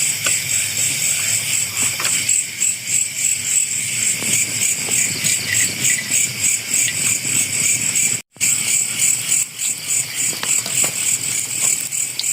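Dense chorus of night insects, crickets by their sound, chirping in a fast steady pulse of about five beats a second. The sound cuts out completely for a split second a little past the middle.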